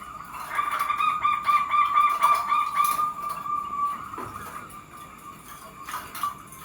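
Bird calling: a fast run of pulsed notes over a steady pitched tone for a few seconds, fading out after about four seconds.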